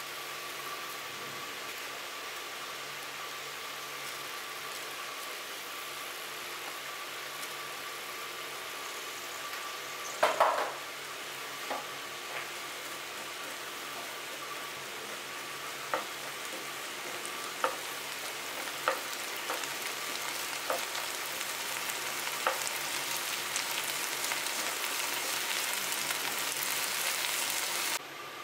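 Tomatoes, onions and dried red chillies sizzling in oil in a non-stick frying pan as cumin and coriander seeds are tempered in, the hiss growing stronger in the later part. From about ten seconds in a spatula stirs the mix, knocking against the pan seven or so times, the first knock the loudest.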